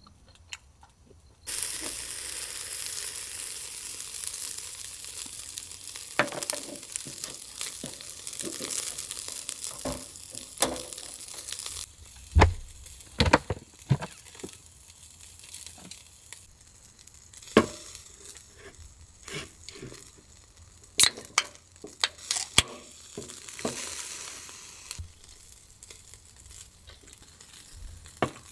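Food sizzling on a hot cooking surface. The sizzle starts suddenly about one and a half seconds in as the food goes on, then dies down about halfway through. After that come scattered sharp clicks and knocks of cooking utensils.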